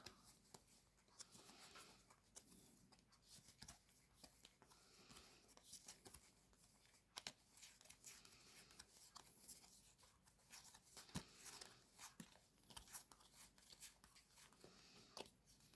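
Near silence with faint, scattered light clicks and soft rustles of trading cards being handled.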